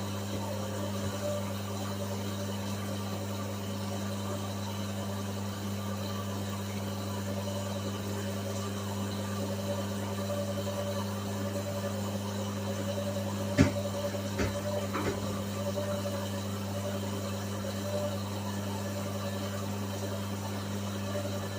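Whirlpool washing machine running with a steady motor hum, with a few light knocks about two-thirds of the way in.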